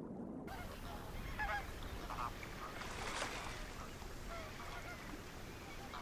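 A flock of American flamingos calling: scattered, goose-like honks over a steady background of noise.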